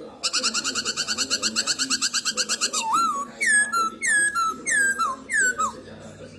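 Black-throated laughingthrush singing: a fast rattling trill of about ten notes a second for some two and a half seconds, then a run of loud, clear whistled notes that each slide down in pitch, about two a second.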